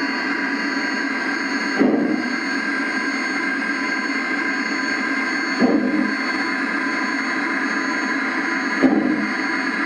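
G-scale USA Trains FEF-3 model steam locomotive's Zimo sound decoder playing steam sounds through the loco's speaker: a steady hiss with three short, louder thumps about three and a half seconds apart.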